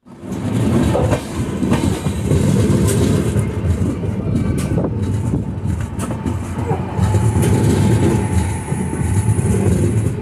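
Express passenger train running at speed, heard from an open coach door: a steady rumble of the coaches with irregular clicks of the wheels over the track. A faint high whine joins about seven seconds in.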